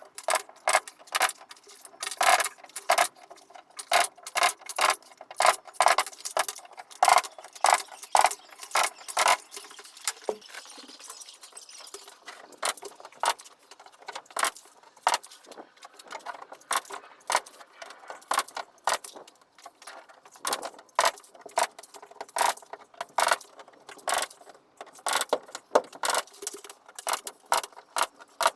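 Rapid, irregular sharp clicks and knocks of carpentry work, several a second, with a short lull about halfway through.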